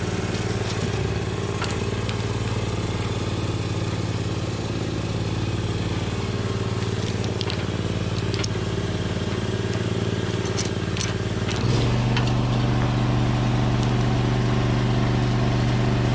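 A small engine running steadily, with a low even hum that gets louder and slightly higher about twelve seconds in, as if taking on load. Faint scattered ticks and creaks sound over it.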